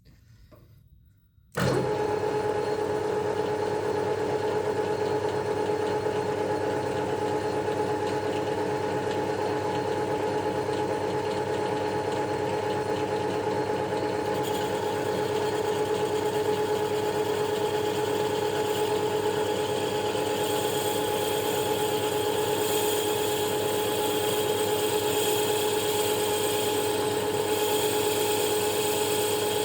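A machine tool's motor running steadily with a fixed hum and whine, starting abruptly about a second and a half in. About halfway through a higher whine and hiss join and hold to the end.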